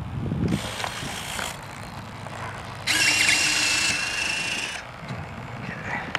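Small electric motor whirring twice, the second run longer and louder with a steady whine: the B-25 model's electric retractable landing gear being cycled while its nose gear stays jammed in the wheel bay.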